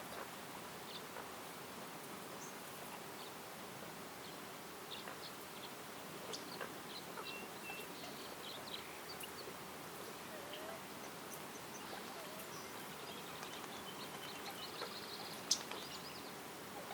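Forest ambience: scattered short, high bird chirps and calls over a steady soft hiss, with a brief buzzy trill late on and a single sharp click shortly before the end.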